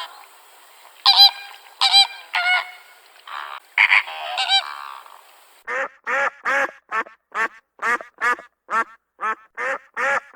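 Farm waterfowl calling: a few scattered honking calls, then from about six seconds in a duck quacking in a steady run of two to three quacks a second.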